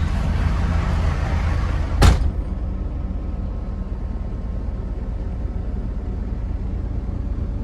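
Dump truck's diesel engine idling steadily, with a single loud bang of the cab door slamming shut about two seconds in, after which the sound turns duller and more muffled.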